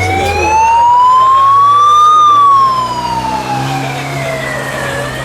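Siren wailing: one slow rise and fall in pitch, loudest at the top of the rise, starting to climb again near the end, over a low steady engine drone.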